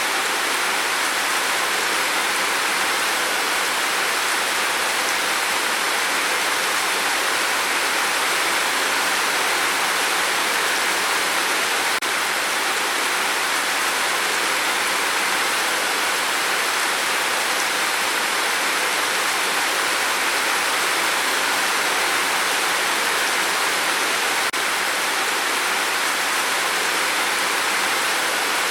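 Steady rain falling on a tin roof: a dense, even hiss of drops that does not change.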